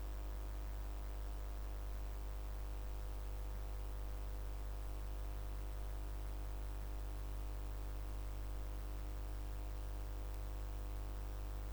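Steady electrical hum with a stack of overtones and a faint hiss, unchanging throughout.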